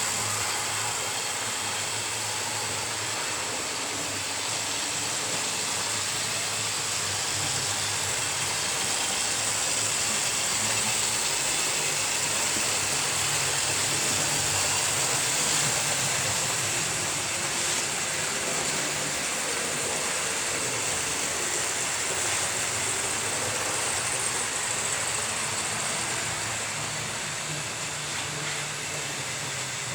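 Model railway locomotives running on a layout: a steady whir of small electric motors with the rattle of wheels on track, swelling a little midway as the trains pass closer.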